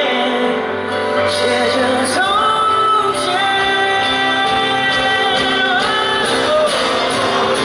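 Live pop song played by a band in a large concert hall, with long held sung notes and slow glides over the accompaniment.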